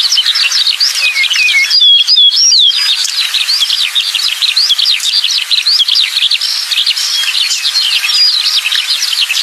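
Songbird singing a fast, continuous stream of high chirps and short falling whistled slurs, with no pauses.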